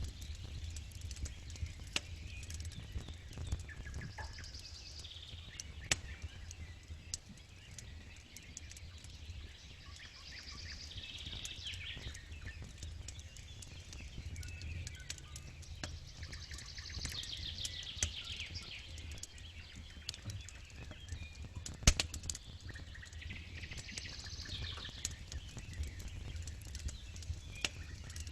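Campfire crackling, with irregular sharp pops over a low steady rumble and one loud snap about three-quarters of the way through. Birds sing in the background in short trilling phrases.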